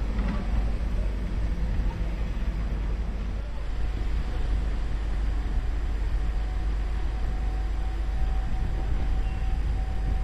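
Steady low rumble and noise of a passenger train approaching along street-level track, with a faint steady tone coming in about four seconds in.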